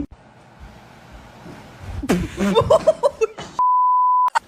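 A single steady electronic bleep at one medium pitch, lasting under a second near the end. All other sound drops out under it, as when a censor bleep covers a word.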